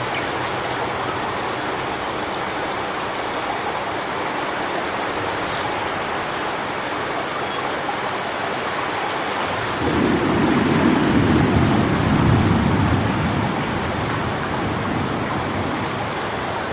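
Strong wind rushing through coconut palm fronds, a steady hiss. About ten seconds in, a low rumble swells for roughly three seconds and then fades.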